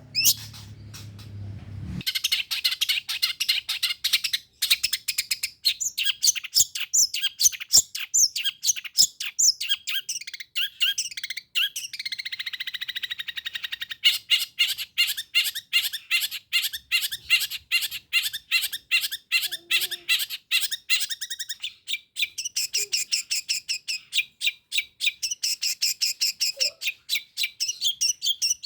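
Long-tailed shrike (pentet) singing a fast, varied song of sharp, high chirps. It shifts into a buzzy trill about halfway through, then into rapid repeated notes, several a second.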